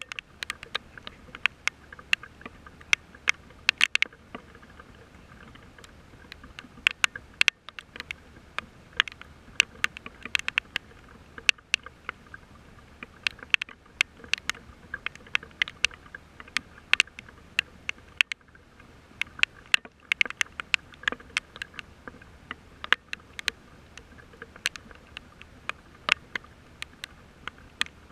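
Rain: many irregular sharp taps of drops landing close to the microphone, over a faint steady hiss.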